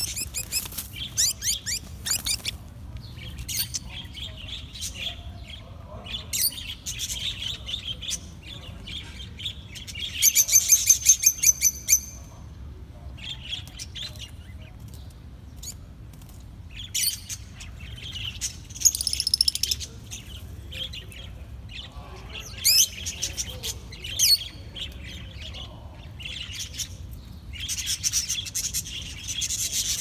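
Birds chirping in quick high-pitched runs that come and go, the loudest run about ten seconds in, with more near twenty seconds and near the end.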